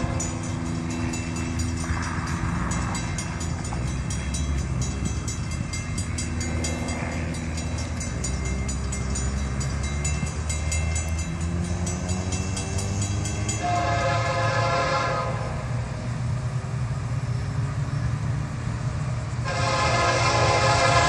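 Approaching Florida East Coast Railway freight train: a steady low rumble of the locomotives, with two horn blasts, a short one about two-thirds of the way in and a longer, louder one near the end.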